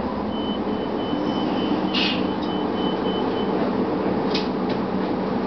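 2004 Gillig Phantom transit bus with its Cummins ISM diesel and HVAC running: a steady, even drone. A thin steady high tone runs through the first few seconds, and short hisses come about two seconds in and twice more near four and a half seconds.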